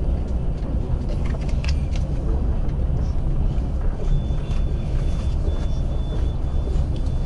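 Steady low rumble of a moving passenger train car, heard from inside, with scattered small clicks. A faint high-pitched tone comes in about four seconds in.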